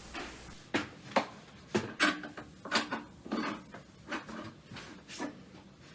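Hand tools, screwdrivers and pliers, clattering as they are picked up and set into a toolbox: a run of irregular knocks and clinks, several a second.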